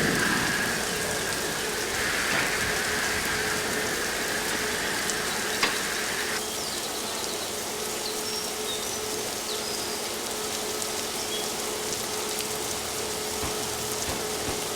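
Water spraying with a steady hiss, a constant machine hum beneath it. The spray thins about six seconds in, and a single click comes shortly before.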